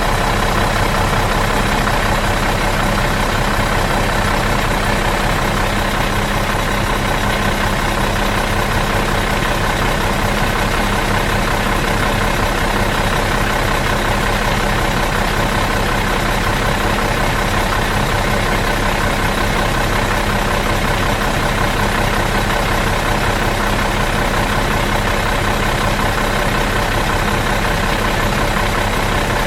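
Bus engine idling steadily in neutral, an even unchanging hum.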